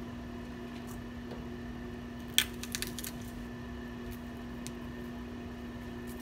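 A kitchen knife striking a plastic cutting board while onion and garlic are cut: one sharp knock about two and a half seconds in, then a few lighter clicks, over a steady low hum.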